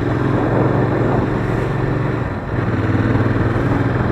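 Royal Enfield Interceptor 650's parallel-twin engine running steadily under way, with a brief dip in the engine note about two and a half seconds in before it picks up again.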